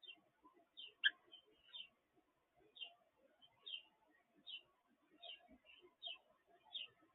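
Bird chirping, short high chirps repeated a little more than once a second.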